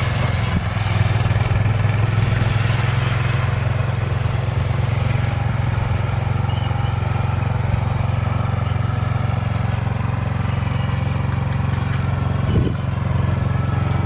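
Gas snowblower engine running steadily while clearing snow, with a brief bump in the sound near the end.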